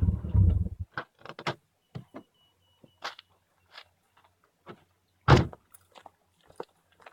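Vehicle engine running, then switched off about a second in; its exhaust leak has been repaired. Scattered clicks and knocks follow, with one loud thump about five seconds in.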